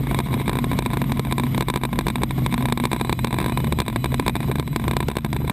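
Helicopter engine and rotor running steadily: a constant low hum with fast, even chopping pulses.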